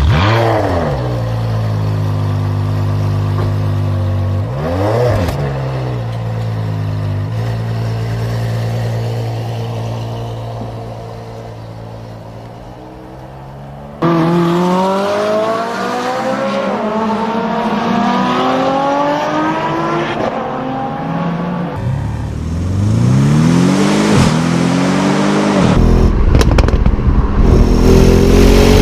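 A car engine revs once and settles to a steady idle, with a second short rev about five seconds in. About halfway through it cuts to hard acceleration, its pitch rising and dropping back through several gear changes, followed by another rev and a loud rush of engine and road noise near the end.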